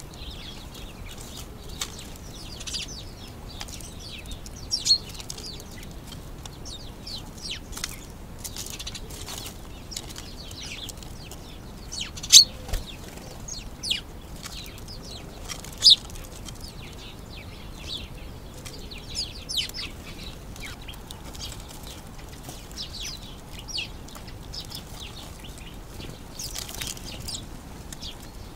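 Small garden birds chirping and calling throughout, many short high chirps over a steady low hiss. There are a few sharp knocks, the loudest about twelve and sixteen seconds in.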